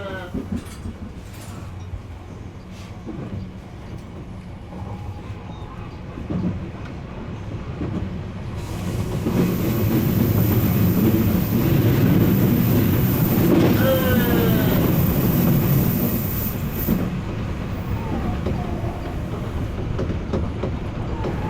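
Odakyu electric train running along the track, a steady rumble with wheels clacking over rail joints. The running noise swells about eight seconds in, carrying a high steady whine, and eases off again after about sixteen seconds.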